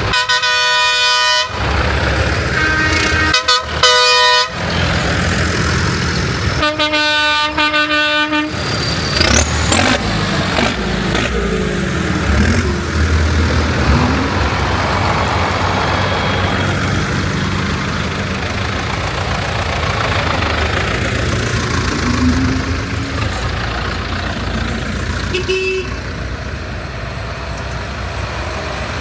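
Parade tractors honking their horns: a long blast, two short toots, then another longer blast, followed by the low steady rumble of tractor engines passing by.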